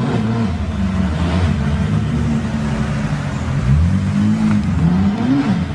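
Car engine revving hard, its pitch rising and falling several times with a long climb near the end, over a steady hiss.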